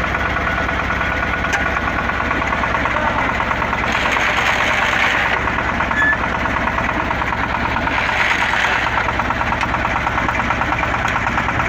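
Engine of an XY-3 water well drilling rig running steadily with a rapid, even knocking beat. A rushing noise swells twice, about four and eight seconds in.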